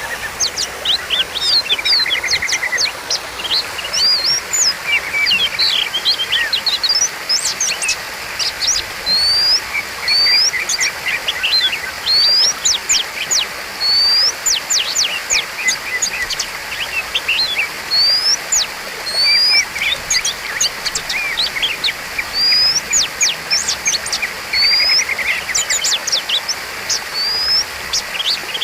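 Oriental magpie-robin singing a continuous, varied song of quick whistled notes and rising sweeps, broken by short buzzy trills.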